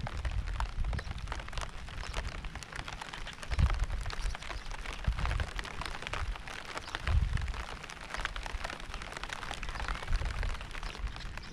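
Steady rain with many individual drops ticking, and a deep low rumble that swells and fades unevenly, strongest about three and a half and seven seconds in.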